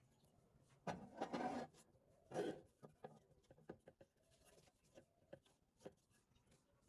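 Faint workbench handling noises: scattered small clicks and knocks, with two short rubbing scrapes, one about a second in and one near two and a half seconds.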